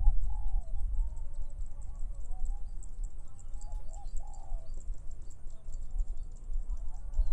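A dove cooing in low, rounded notes, loudest about half a second in and again about four seconds in, over a dense, rapid high chirping and a low wind rumble on the microphone.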